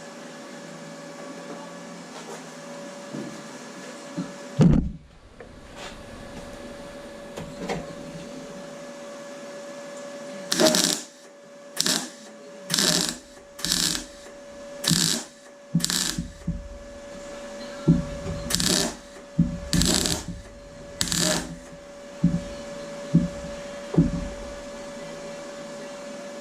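MIG welder laying short stitch-weld bursts into thin car-door steel, about nine bursts of under a second each, roughly one a second, starting about ten seconds in. The welder is set high and run in short bursts to get penetration without overheating the panel. A steady hum runs underneath, and a single thump comes about five seconds in.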